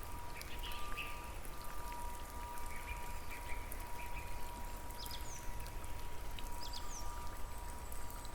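Steady rain with many small drop ticks, under a faint steady high tone. A few short high chirps come about halfway through and again near the end.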